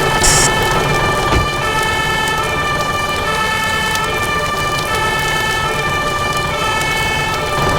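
Two-tone hi-lo siren alternating between two pitches about every one and a half seconds, over a steady hiss.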